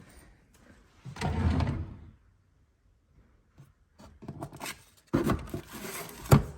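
A drawer or sliding closet door being pushed open and shut: two rumbling slides, the second ending in a sharp knock as it closes, with a few small clicks between them.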